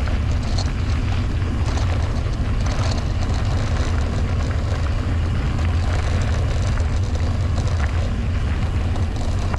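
Wind rumbling steadily on the camera microphone as a mountain bike is ridden along a dirt trail, with faint ticks and rattles from the bike and tyres over the ground.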